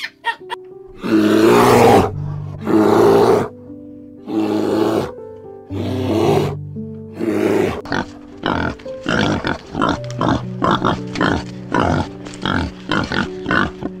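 Wild boar grunting in a quick series of short grunts, about three a second, over soft piano music; before the grunts come five long harsh calls, each under a second.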